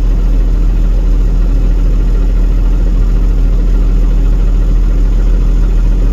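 Engine of a CNG-fuelled garbage truck running steadily, a constant low drone with no changes.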